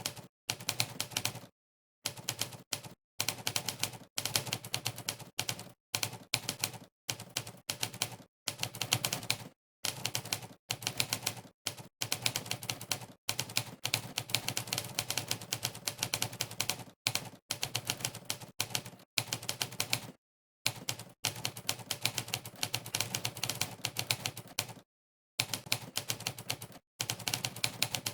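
Monkeytype's simulated typewriter keystroke sound, one clack per key press, coming in rapid runs of typing separated by brief gaps of silence.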